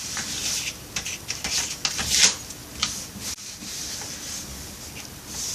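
A sheet of paper rustling and being folded and creased by hand, in a series of short scraping swishes, the loudest about two seconds in.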